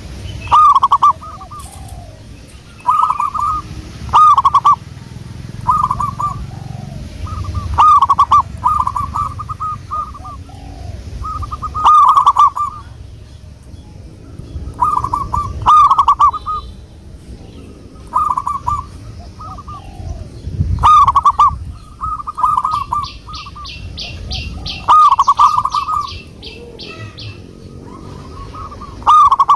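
Zebra dove (perkutut) cooing: short phrases of rolling coos repeated about every two seconds. A fast run of high ticking notes comes in about two-thirds of the way through.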